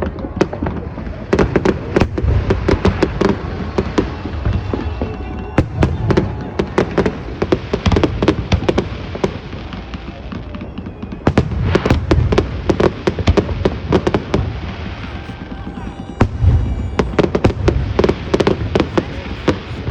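Fireworks bursting in dense rapid volleys of sharp bangs and deep booms, in several waves separated by brief lulls.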